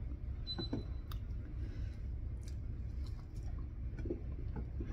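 A person chewing pork and rice, with a few faint, scattered mouth and finger clicks over a steady low hum.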